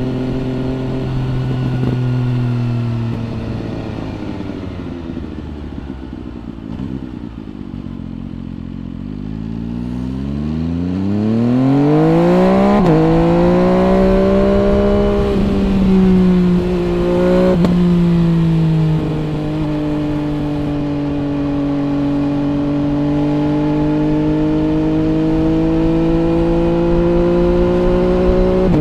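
MV Agusta Brutale 800 RR's inline three-cylinder engine through an MV Agusta Corse trio exhaust, heard from the rider's seat. The revs fall away for several seconds as the bike slows, then climb hard in a quick run up through the gears, the pitch dropping sharply at each shift, and settle into a steady, slowly rising note.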